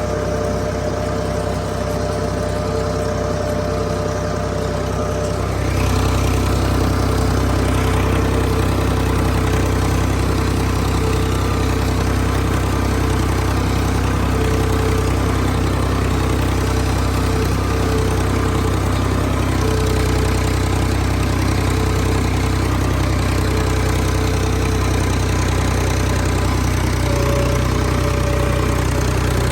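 Tractor engine running steadily while scraping a field; it gets louder about six seconds in and holds there.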